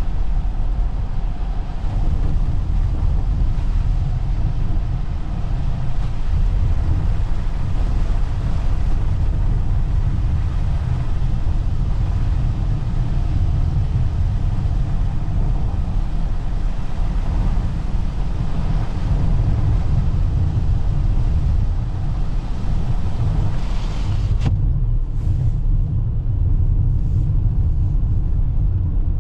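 Steady low road and tyre rumble inside a Toyota RAV4 hybrid driving on a snowy road, with a hiss above it. About 24 seconds in the higher hiss drops away abruptly while the rumble carries on.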